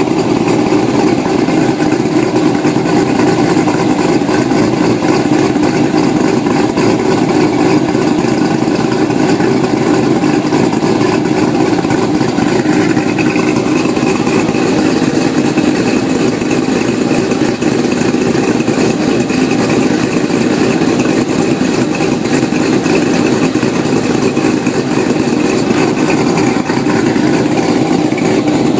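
Car engine idling steadily, heard from underneath the car close to the exhaust.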